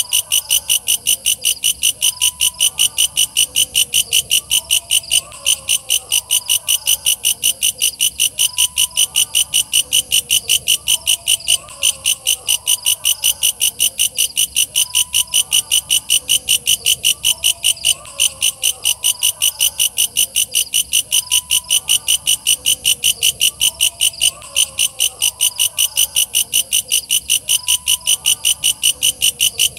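Walang kecek katydid calling: a loud, steady run of high-pitched pulses, about four a second, with fainter, lower chirps underneath.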